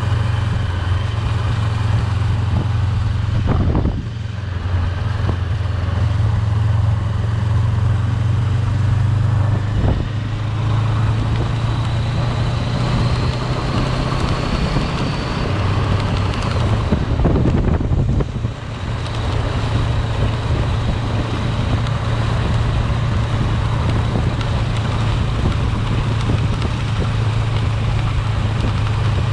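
Car driving, heard from inside the cabin: a steady low engine drone with road noise, dipping briefly about four seconds in and again about eighteen seconds in.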